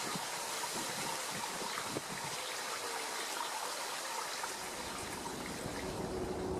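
Steady rushing and trickling of running water.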